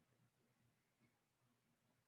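Near silence: a pause in a guided breathing meditation.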